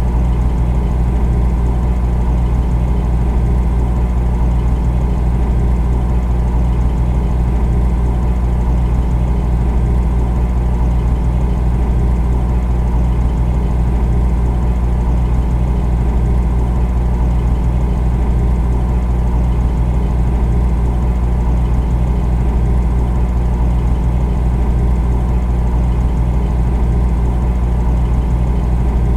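Refrigerator compressor humming steadily, a constant deep drone with a fainter buzzing hum above it and no change in pitch or level.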